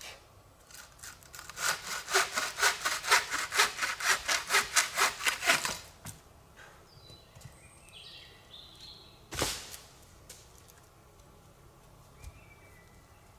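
Hand saw cutting wood in quick, even strokes, about four a second, for some four seconds; a few seconds later a single sharp knock.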